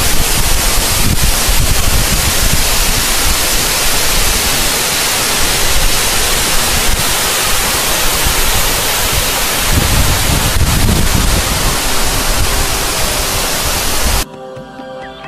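Loud, steady rush of a large waterfall, with low rumbles of wind buffeting the microphone. It cuts off abruptly about a second before the end, leaving a much quieter passage with a few faint steady tones.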